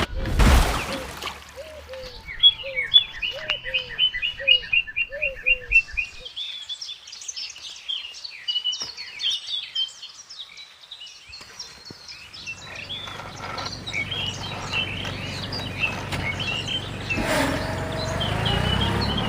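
Birds chirping and singing: a quick run of repeated high chirps over lower falling notes about once a second, then looser, varied chirping. A low steady hum comes in under the birds past the midpoint.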